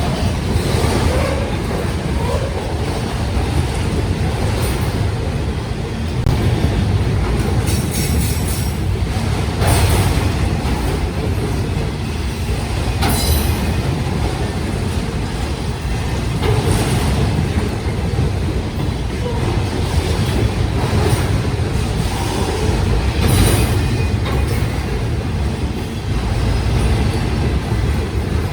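Union Pacific autorack freight cars rolling past, a steady loud rumble of steel wheels on rail. Brief high wheel squeals and clanks come through several times.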